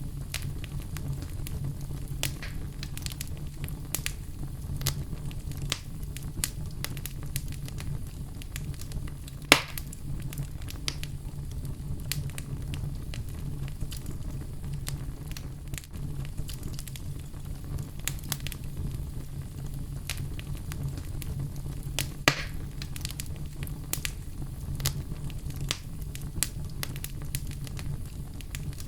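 Wood fire crackling and popping, with a steady low rumble and many scattered sharp snaps; two louder pops stand out, about a third of the way in and again past two thirds.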